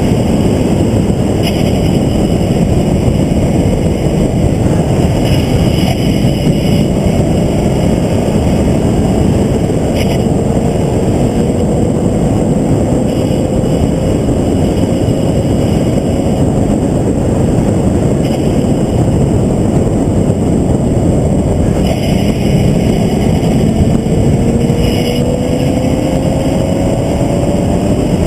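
Onboard sound of a vehicle lapping at speed: a loud, steady rush of wind and road noise over the engine, whose pitch climbs slowly through one long pull about a third of the way in and another near the end.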